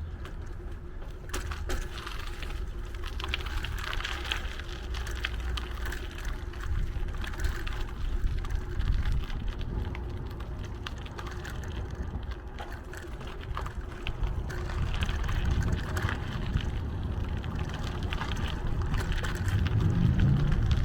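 Wind rumbling on the microphone and tyre noise from a bicycle being ridden, with scattered clicks and rattles from the bike. The low rumble grows louder near the end.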